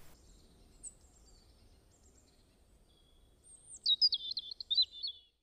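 A bird chirping: one faint high chirp about a second in, then a quick run of loud, high, warbling chirps over the last two seconds.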